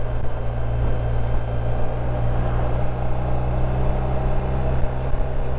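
BMW R1250 RT's boxer-twin engine running steadily in second gear, engine braking on a downhill.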